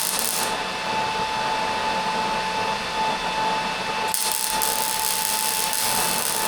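A steady machine whine with one constant high tone over a hiss, with a brief surge of hiss about four seconds in.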